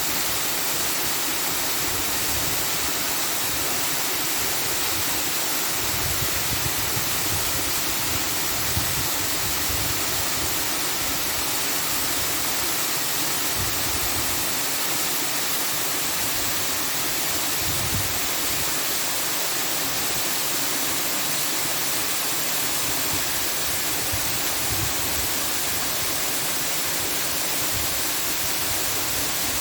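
Steady, even rushing noise with no change or pauses, like running water or a hiss.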